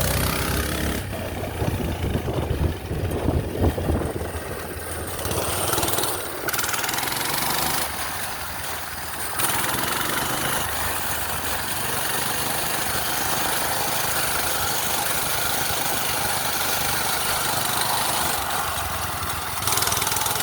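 Minibike's small gas engine running as it is ridden, its pitch rising and falling with the throttle, with a steady rush of wind noise over it.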